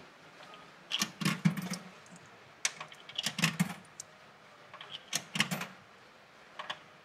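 Clicking and rattling in four or five short clusters, from the self-service beer tap's payment machine being operated.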